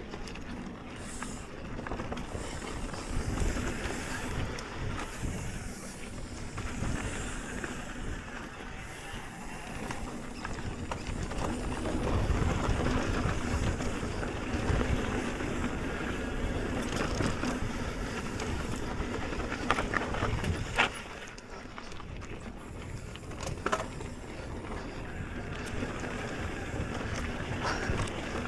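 Mountain bike riding a dirt trail: tyres rolling over dirt and rock and the bike rattling, with a steady low rumble. There are two sharp knocks at about twenty and twenty-one seconds, with a few smaller ones later.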